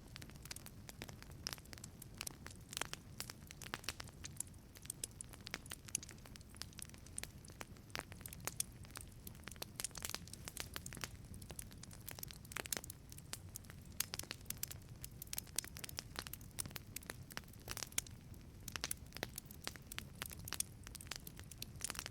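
Wood fire burning in a wood-fired pizza oven: many irregular sharp crackles and pops over a low steady rumble of the flames.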